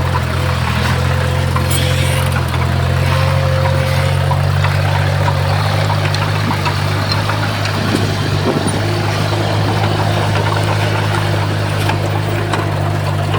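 Heavy diesel engine of earthmoving equipment running steadily at a constant, deep drone.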